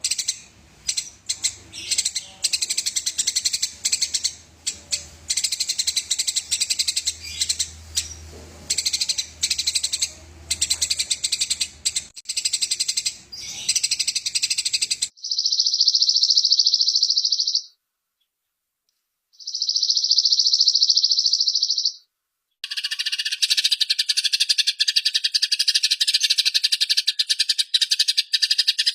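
Eurasian tree sparrows (burung gereja) calling aggressively. First comes a fast, dense run of high chirps. Then two long buzzing rolls break off abruptly into brief silence, and a continuous rolling trill follows.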